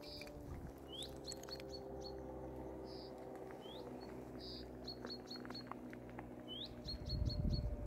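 A small bird singing faintly: a quick rising note followed by a fast run of four or five short high notes, repeated three times, with a few buzzy notes between. Under it runs a faint low steady hum, and a low rumble rises near the end.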